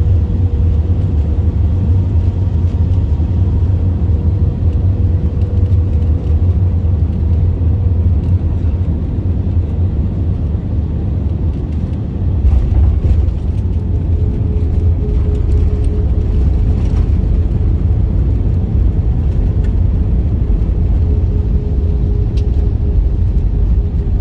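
Inside an airliner cabin during the landing: a steady loud low rumble of jet engines and airflow, with a thin steady engine tone that drops slightly in pitch about halfway through.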